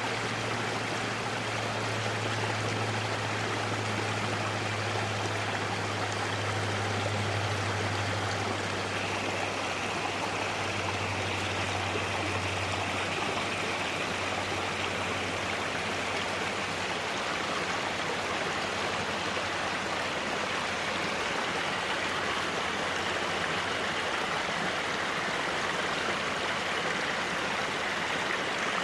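Stream water running steadily, an even rushing splash, with a low hum underneath that fades out about two-thirds of the way through.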